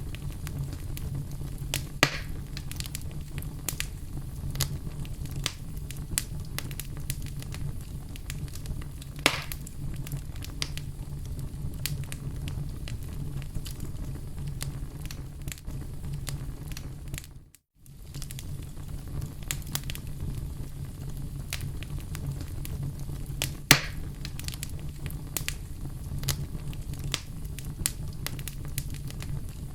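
Wood fire crackling, with a steady low rumble under many small snaps. Three louder sharp pops come about 2, 9 and 24 seconds in. The sound cuts out to silence for a moment just past halfway.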